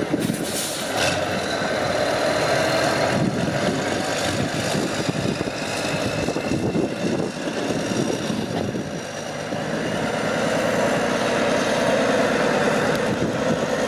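Off-road truck's engine running under load and revving, easing off about nine seconds in, then building up again.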